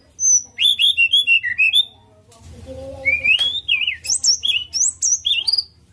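White-rumped shama (murai batu) singing a fast, varied song of sharp, sweeping whistled notes. There is a short pause about two seconds in, then a long rising whistle and more quick phrases, over a faint low hum.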